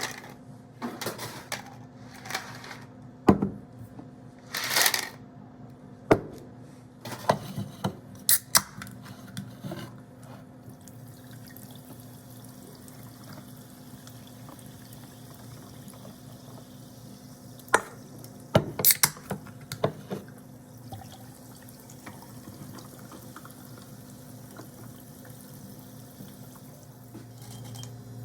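Kitchen work at a sink: scattered clinks and knocks, bunched in the first ten seconds and again near the end, with some running or dripping water, over a steady low hum.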